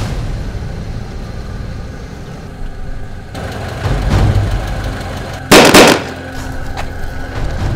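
Vehicle engine running steadily, broken about five and a half seconds in by a short, very loud burst of several sharp bangs in quick succession.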